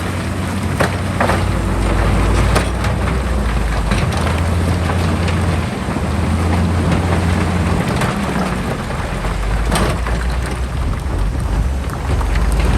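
Heavy diesel earthmoving machinery running under load, a low engine drone with rough noise over it and a few scattered knocks and clatters.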